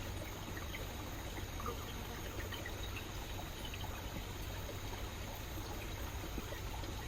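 Rainforest stream flowing, a steady trickling rush of water.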